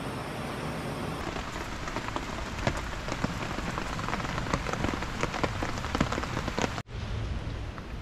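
Rain falling, a steady hiss with many sharp individual drop hits close by. The sound cuts out for an instant about seven seconds in, then the rain carries on.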